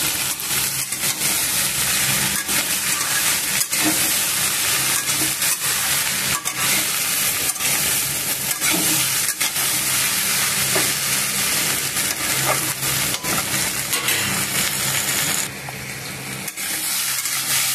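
Okra and potato sticks sizzling in hot oil in a kadhai, stirred with a spatula that scrapes and clicks against the pan. Near the end the sizzle drops lower for about a second.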